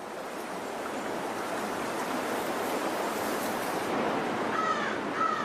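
Salmon creek water rushing steadily over the streambed. Two short chirps sound near the end.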